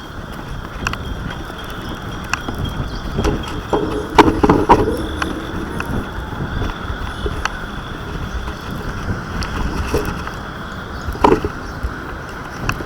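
Wind buffeting the microphone of a small drone camera carried on a kite, a steady rumbling rush with scattered knocks and rattles, louder clattering about four seconds in and again near the end.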